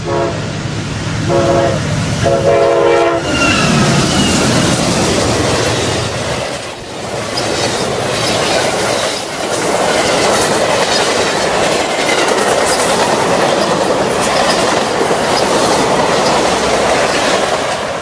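Amtrak Lake Shore Limited passenger train passing close by: the locomotive sounds its horn in three blasts, short, short, then longer, and its note drops as it goes past. The cars follow in a loud steady rush with wheels clattering over the rail joints.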